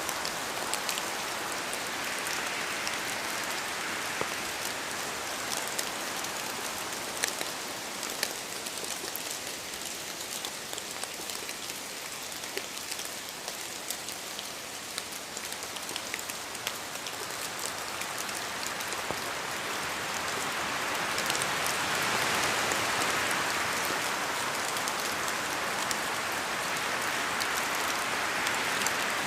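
Steady rain falling in a forest, a continuous hiss dotted with many sharp, separate drop impacts. The hiss swells louder over the last third.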